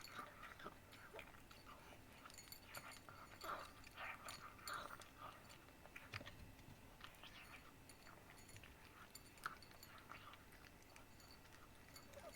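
A cat chewing and eating its food: quiet, irregular small clicks and bites, busier in the first half and sparser later.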